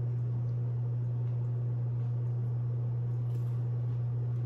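A steady low hum with a few faint, short crunches of a bite being taken from a slice of avocado toast.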